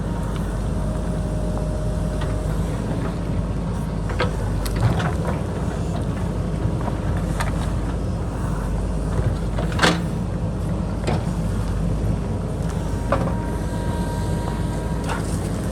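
JCB backhoe loader's diesel engine running steadily while it digs, with scattered knocks and clanks from the bucket and rocks, the sharpest about ten seconds in.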